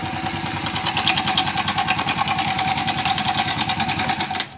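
Honda Biz 100 single-cylinder four-stroke engine idling steadily, with a fast even beat and a light rapid ticking over it. The sound cuts off abruptly near the end.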